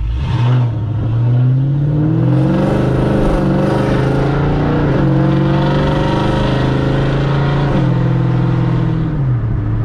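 Cammed 4.6-litre three-valve V8 of a 2005–2009 Ford Mustang GT, straight-piped through long-tube headers, an X-pipe and muffler deletes, pulling hard. The revs climb over the first two seconds, hold high for about five seconds, then fall away sharply about eight seconds in and settle back low.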